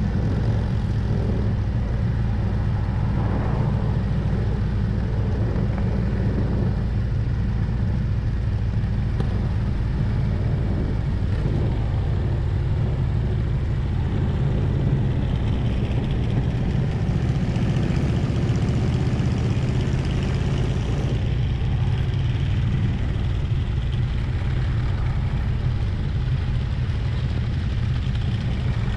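Harley-Davidson Road Glide's V-twin engine running steadily at cruising speed, heard from the bike with a rush of wind and road noise.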